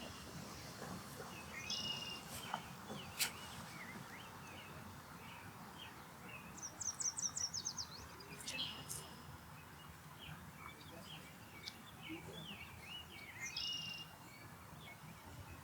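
Birds chirping and calling over steady outdoor background noise, with a quick run of about eight high notes near the middle.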